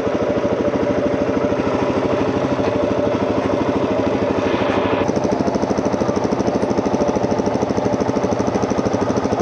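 Off-road vehicle engine idling steadily, with a fast, even pulse of firing strokes.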